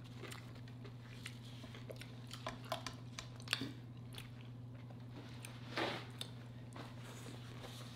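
A person chewing food close to the microphone, with scattered soft mouth clicks and a louder bite about six seconds in, over a steady low hum.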